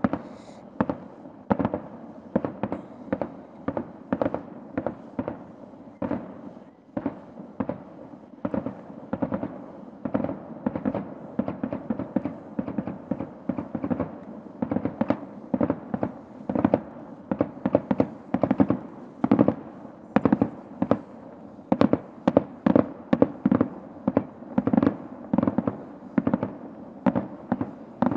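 A continuous barrage of fireworks bursts heard from high above: sharp bangs and pops several times a second, loudest and densest in the last third. Beneath them runs the steady hum of the hovering quadcopter's propellers.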